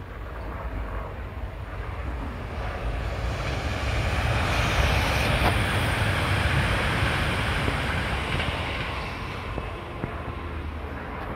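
A coupled pair of electric multiple-unit passenger trains passing: a rush of wheels on rail and air that swells to a peak mid-way and then fades as the train moves away.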